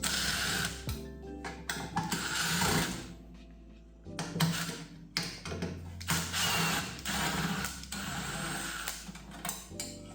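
Power screwdriver running in several short bursts, backing out the screws at the back of a microwave's casing, over background music.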